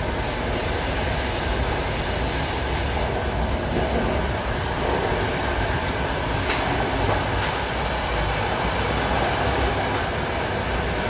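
Running noise of an ÖBB Nightjet couchette car under way, heard from inside: a steady rumble of wheels on rail with a few faint clicks and knocks, the sharpest about halfway through.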